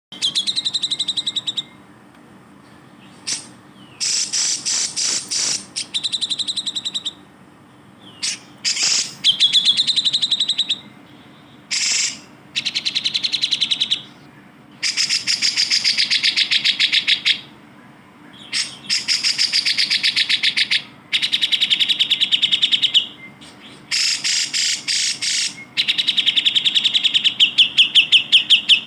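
Cucak jenggot (grey-cheeked bulbul) singing in repeated bouts of fast, chattering trills, each bout lasting one to three seconds with short pauses between, about a dozen in all.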